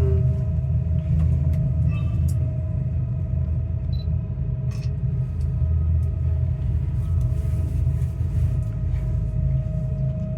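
Funicular railway car running along its track, heard from inside the car: a steady low rumble with a faint steady whine over it and a few light clicks.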